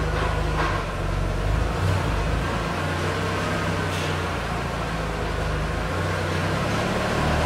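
Audi A3's 1.8-litre turbocharged four-cylinder (AUM engine) idling steadily on a chassis dynamometer, with a couple of faint clicks.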